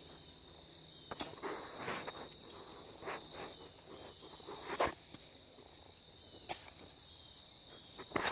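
Insects trilling steadily in a high, even tone, with scattered short rustles and crunches of movement in dry fallen leaves, the loudest a little before the five-second mark.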